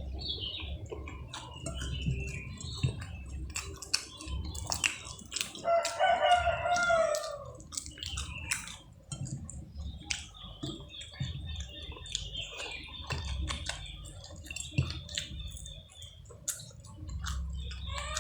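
Close, repeated clicks and smacks of someone chewing fried catfish. About six seconds in, a loud drawn-out animal call sounds once and lasts about a second and a half; a thin high chirping runs through the middle stretch.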